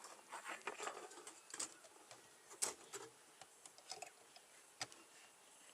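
Faint scattered clicks, taps and scrapes of beehive parts being handled as the hive is closed up, with one sharper click about two and a half seconds in.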